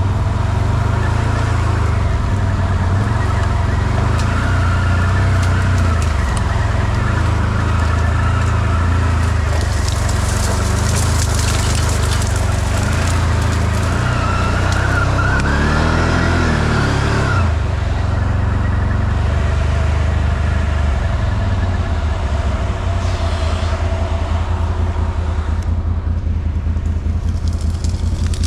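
ATV engine running steadily while riding, with its pitch rising and falling about a quarter of the way from the end, as if from a rev. A stretch of rushing noise runs for a few seconds near the middle.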